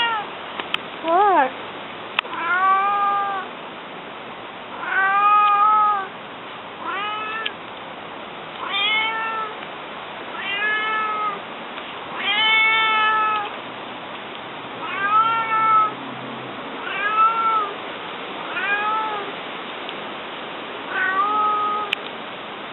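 A domestic cat meowing over and over, about eleven meows of under a second to about a second each, one every two seconds or so, each rising and then falling in pitch.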